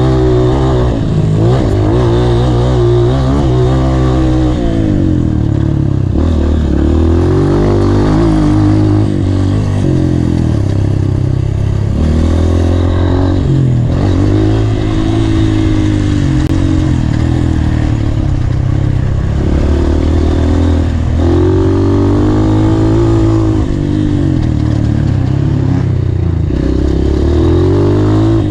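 Honda CRF230 dirt bike's four-stroke single-cylinder engine being ridden hard, revving up and backing off again and again, its pitch rising and falling every few seconds.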